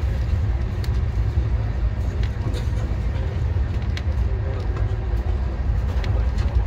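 Express passenger train running at speed, heard from aboard: a steady low rumble of wheels on the rails with a few sharp clicks scattered through it.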